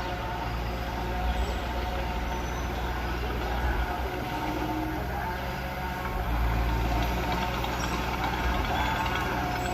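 Mitsubishi BD2F bulldozer's diesel engine running steadily with a low rumble, a little louder from about six seconds in.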